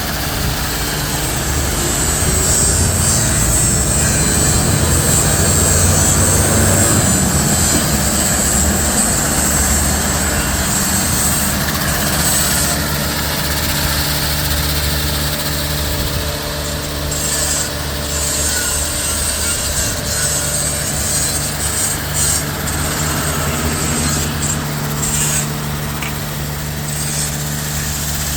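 Autoequip/Degama FLY 28 rollover car wash running: a steady motor hum under a broad hiss of spinning brushes and water spray. The hiss is strongest in the first dozen seconds and eases afterwards, with a few short knocks later on.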